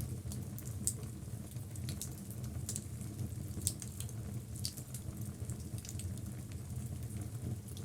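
Wood logs burning in a fireplace: a steady low rush of flame with irregular sharp crackles and pops.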